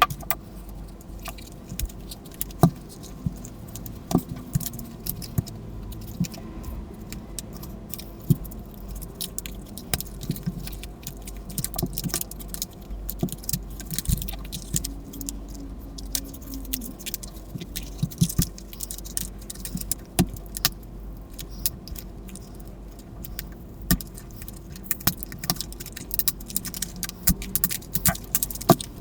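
Irregular clicks, taps and small clinks of tools and plastic parts being handled while a battery-powered plush toy is taken apart.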